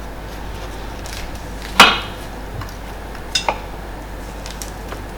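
Knife clicking and knocking on the cutting surface as strawberries are cut: a few scattered sharp clicks, the loudest about two seconds in.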